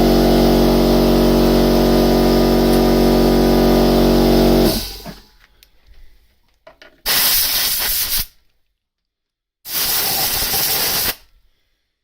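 A machine's motor hums steadily, then shuts off about four and a half seconds in. After a pause come two blasts of compressed air from an air line, each about a second and a half, blowing the shattered pieces of a broken tap out of the threaded hole.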